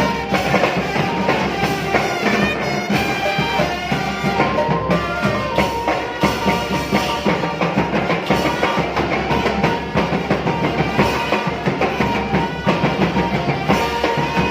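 Thai village brass band (trae wong) playing a tune, with a horn melody over a steady drum beat.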